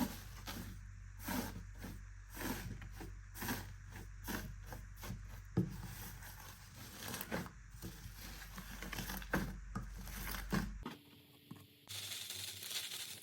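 Slime being squeezed and poked by hand, giving wet, sticky clicks and squelches about two a second. About eleven seconds in, after a cut, a steady hiss-like crackling of slime being worked.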